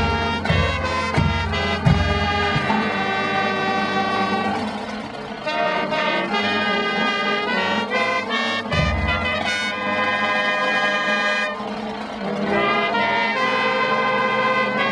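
Brass band music: several horns playing a tune, with low drum hits in the first two seconds and again about nine seconds in.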